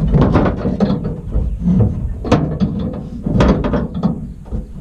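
Hand socket ratchet being worked back and forth, its pawl clicking in irregular bursts, loosening the stuck gooseneck hitch ball's nut.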